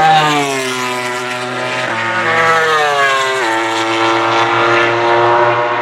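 Racing motorcycle engine running at high revs on track: its pitch falls, rises again after a gear change about two seconds in, drops sharply about three and a half seconds in, then holds steady.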